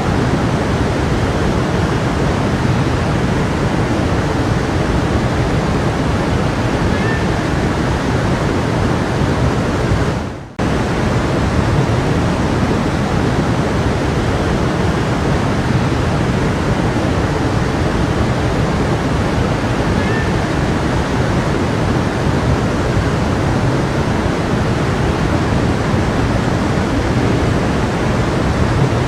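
A brook flowing: a steady rush of running water, which fades out briefly about ten seconds in and cuts straight back in.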